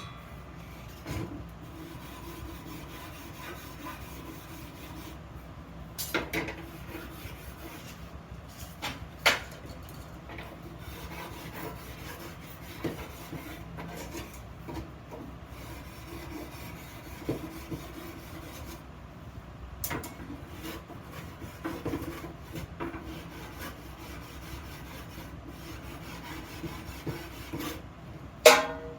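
Hand work on iron vase parts: steady rubbing and scraping on metal, broken by a few sharp metal knocks. The loudest knock, near the end, rings briefly.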